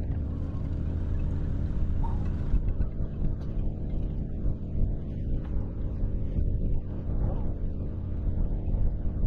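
Small sailing boat's engine running steadily under way, a continuous low rumble.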